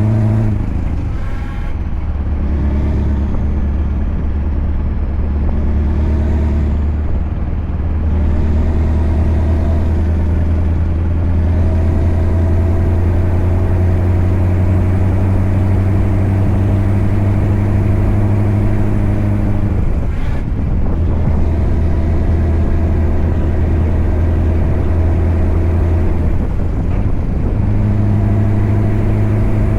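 Scania V8 diesel truck engine running steadily under load, its note dropping and shifting a few times as gears change.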